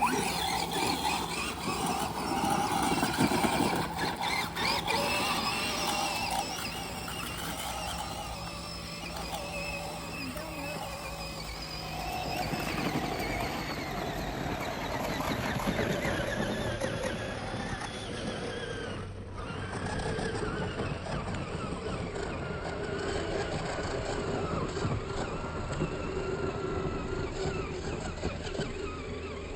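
Radio-controlled car's motor whining, rising and falling in pitch as it speeds up and slows while drifting.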